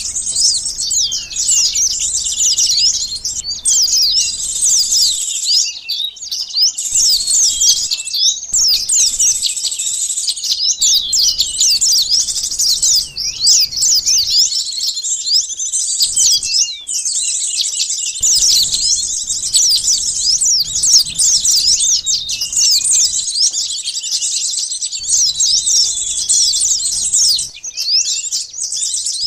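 Bird lure recording: a dense, unbroken chorus of small birds' high, rapid chirps and twittering trills, many calls overlapping, sunbird calls among them.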